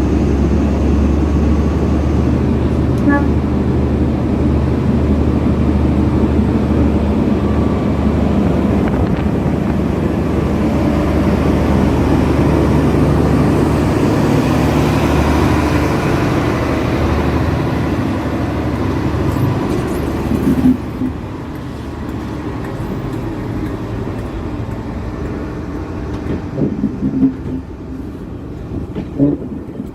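Heritage diesel train's engine running loud and steady, then dropping away abruptly about twenty seconds in, leaving quieter rumbling with a few light knocks.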